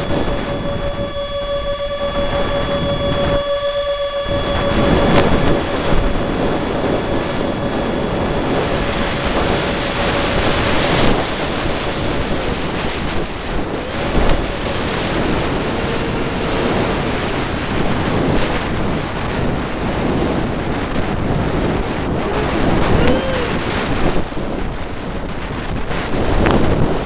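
Electric ducted-fan RC A-10 jet flying, its fan whine holding a steady pitch for the first several seconds and wavering up and down with the throttle later on, under heavy wind buffeting the microphone.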